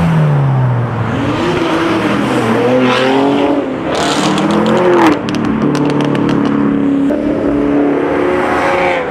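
Several high-powered car engines revving and accelerating away, their pitch rising and falling. About four seconds in comes a quick run of sharp pops.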